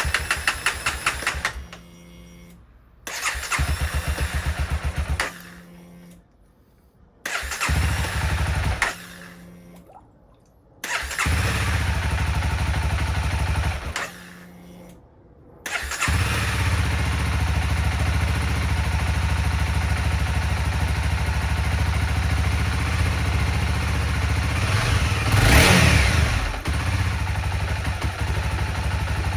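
Honda CBR300R's single-cylinder engine being cranked on the electric starter in several short tries, with a low hum in the pauses between them. It catches about sixteen seconds in and then runs steadily, with one blip of the throttle near the end. This is its first start after seven years in storage.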